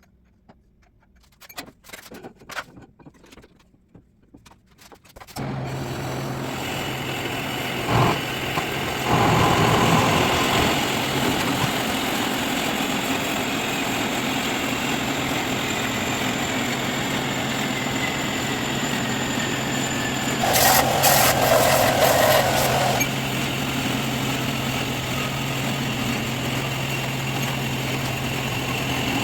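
The Audi S8's 4.0-litre V8, converted to a single turbo, starts suddenly about five seconds in after a few clicks, then runs at a steady idle. It briefly gets louder twice, a few seconds after starting and again for about two seconds near the three-quarter mark.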